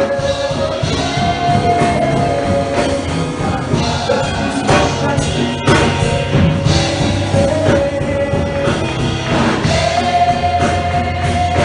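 Gospel choir singing long held notes over a live band with drums.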